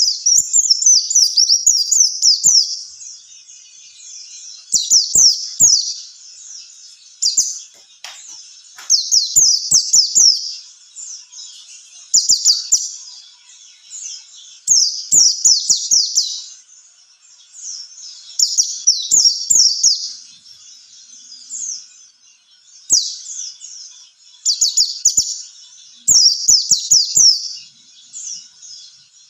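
White-eye (pleci) singing: bursts of rapid, high-pitched twittering notes a second or two long, repeated every few seconds, with faint ticks beneath.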